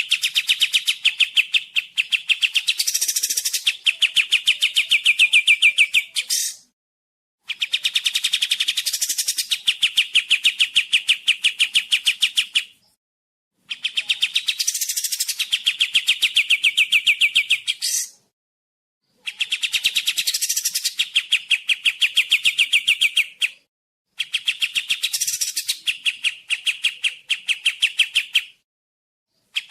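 Kapas tembak songbird singing its rapid trill: five long phrases of fast, evenly repeated notes, each lasting about five seconds, with a short pause of about a second between them.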